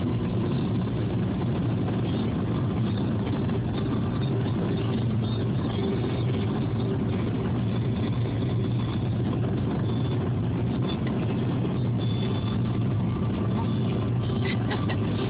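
Car driving at a steady pace: continuous engine and tyre noise with a low hum.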